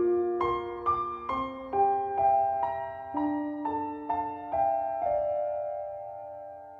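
Background music: soft solo piano playing a slow melody, notes struck about every half second, ending on a held chord that fades away.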